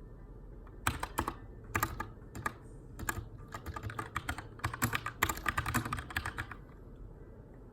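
Typing on a Keychron K2 aluminium mechanical keyboard with brown switches: irregular bursts of keystrokes starting about a second in, with short pauses between runs, stopping about a second before the end.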